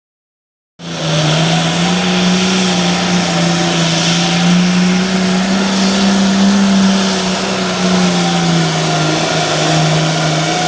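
Diesel pulling tractor from the 466 Hot Farm class running flat out under load while dragging the pulling sled. The engine holds one steady high pitch that wavers only slightly, and it cuts in abruptly about a second in.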